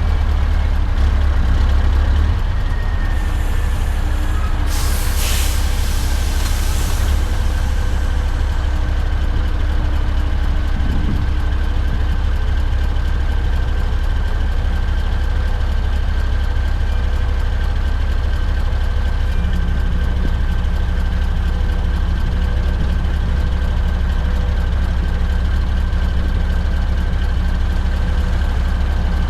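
Scania R580's 16-litre V8 diesel, straight-piped, running with a steady deep rumble. About five seconds in comes a short hiss of compressed air from the truck's air system.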